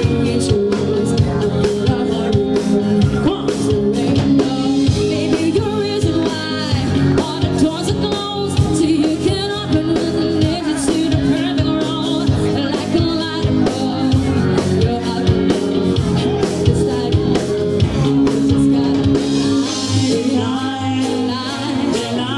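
Live band playing a pop-rock song: a woman singing lead over drum kit and guitar.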